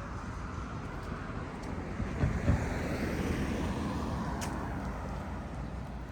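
Street traffic: a car passes by, its noise swelling to a peak about two and a half seconds in and then fading away.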